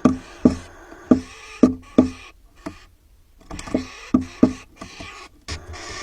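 A series of sharp, hollow knocks, about two a second, like something hard striking wood, with a pause of about a second midway.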